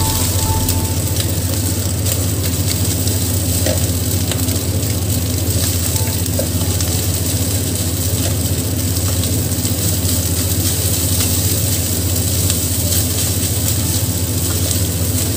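Fried rice sizzling in a nonstick wok as it is stirred and turned with a spatula, with a few light clicks of the utensil against the pan, over a steady low hum.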